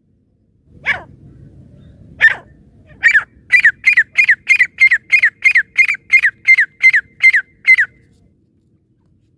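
Francolin (teetar) calling: two single sharp calls, then a fast run of about fourteen calls at roughly three a second, each one dropping in pitch.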